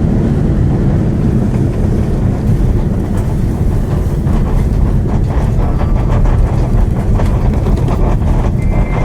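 Cabin noise of an Airbus A330-300 rolling on the ground after landing: a steady low rumble from the wheels on the pavement and the engines. Light rattling knocks come in from about four seconds in and grow more frequent.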